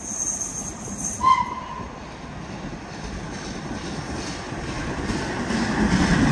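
Railway train sound: a steady high whine that stops a little over a second in, with a short tone at the same moment, then a low rumble building steadily louder towards the end.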